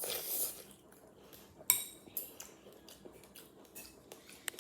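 Spoon scraping and clinking against a bowl of fruit and coconut milk, with one sharp ringing clink about a third of the way in.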